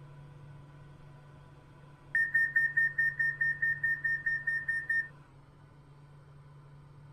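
Class 390 train's door-closing warning: a rapid high beeping, about five beeps a second for roughly three seconds, starting about two seconds in. A steady low hum from the train runs underneath.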